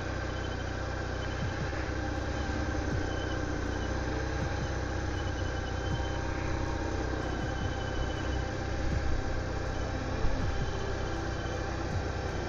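BMW touring motorcycle engine running steadily, heard from the bike itself.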